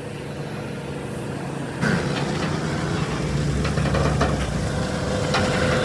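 Heavy truck engine running with a steady low hum, becoming louder and rougher about two seconds in, with a few knocks and clanks.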